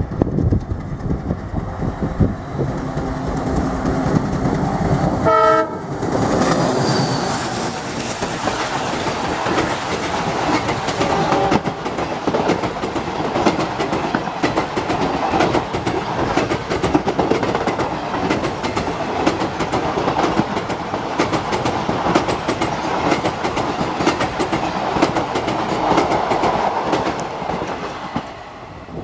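A train passing close by: a locomotive's engine, a short horn blast about five seconds in, then the coaches' wheels clattering rapidly over the rail joints, fading shortly before the end.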